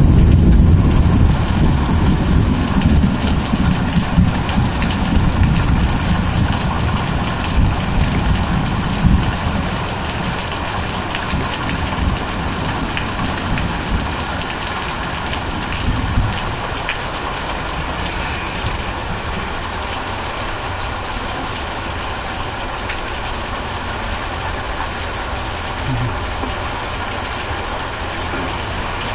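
Thunder rumbling, loud at first with a few swells, then dying away over about ten seconds, over steady rain.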